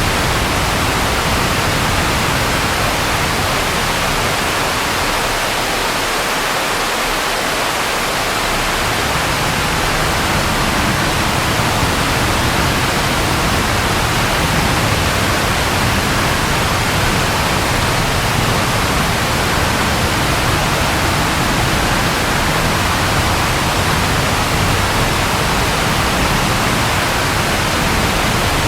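Steady, even rainfall, a continuous hiss of rain with no breaks.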